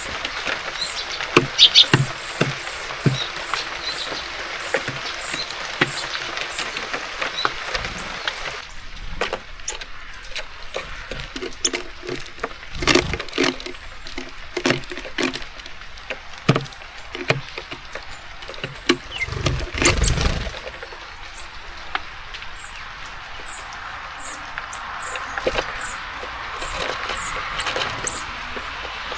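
Small birds at a seed feeder: repeated clicks and knocks as they peck and hop on it, with short high chirps near the start and again near the end. Rain hiss is heard in the first third and the last few seconds, and there is one louder thud about 20 seconds in.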